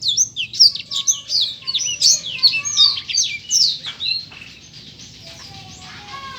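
A songbird singing a fast run of sharp, high chirps, each note sliding downward. The song is loud for about four seconds, then drops to fainter, scattered notes.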